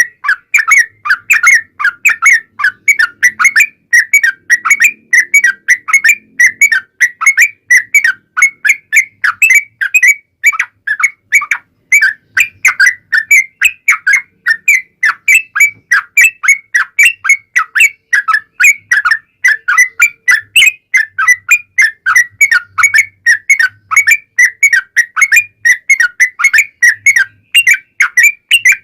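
Yellow-vented bulbul (trucuk) singing a long, continuous chattering run of short, loud whistled notes, several a second, without a break.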